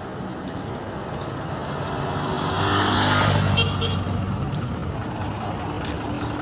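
A motor vehicle passes close by over steady traffic noise, its engine growing louder to a peak about three seconds in and then fading.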